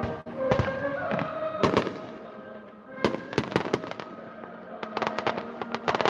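Fireworks bursting: a few single bangs, then quick runs of sharp cracks about halfway through and again near the end, over music playing throughout.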